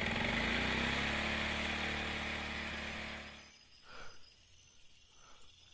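A small two-wheeler engine running as the rider pulls away, fading steadily, then cutting off about three and a half seconds in.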